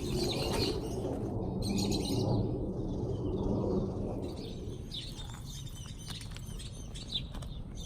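Small birds chirping over a steady low background rumble; the rumble is heaviest in the first half and eases off after about four seconds.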